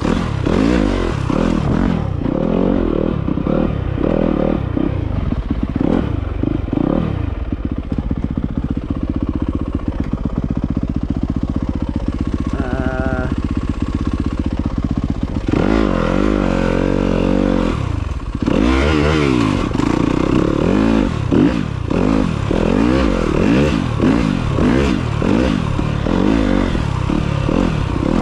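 Off-road motorcycle engine being ridden, its revs rising and falling again and again as the throttle opens and closes, with a steadier stretch in the middle.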